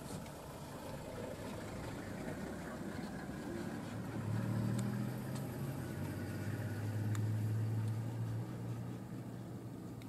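A motor vehicle's engine running at low revs: a low steady hum that grows louder about four seconds in and eases off a little before the end.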